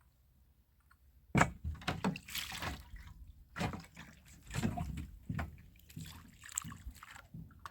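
Water splashing and sloshing in irregular bursts as glasses are washed by hand, starting suddenly about a second and a half in.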